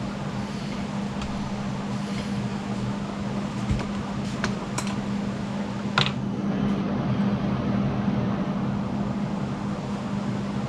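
A steady low mechanical hum, like a fan or small motor, runs throughout. A few sharp metallic clicks come about four and a half to six seconds in, the loudest near six seconds.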